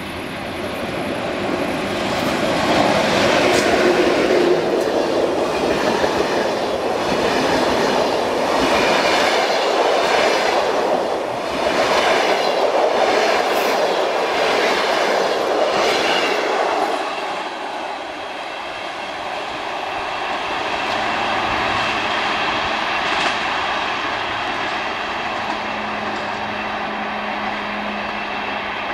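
Passenger train hauled by an EP07 electric locomotive passing at speed. A rising rush as the locomotive arrives gives way to the coaches' wheels beating over the rail joints about once a second. The noise drops off sharply a little after halfway, then fades as the train pulls away.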